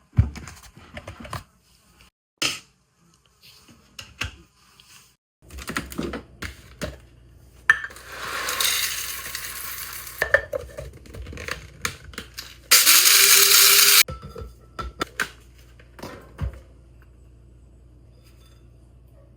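Kitchen clatter of dishes and utensils, with scattered knocks and clicks. Two spells of hiss: one from about 7.5 to 10 seconds, and a louder, even one lasting just over a second, starting about 13 seconds in.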